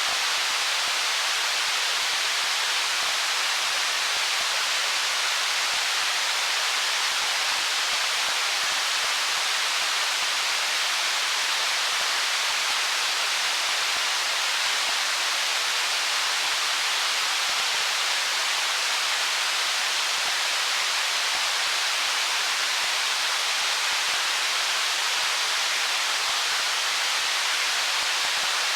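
Stream water flowing over stones: a steady, even rushing hiss, mostly high-pitched with little deep rumble, unchanging throughout.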